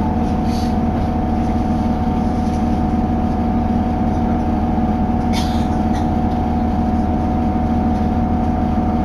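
Diesel railcar running, heard inside the passenger cabin: a steady engine and wheel drone with a constant whine. A brief sharp high-pitched squeak comes about five seconds in.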